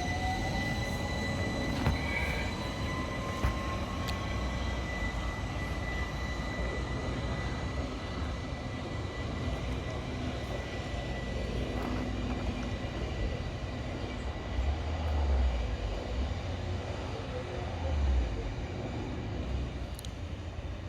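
Class 377 Electrostar electric train pulling away, its traction motor whine rising steadily in pitch over the first several seconds over the running noise, with a steady high whine alongside.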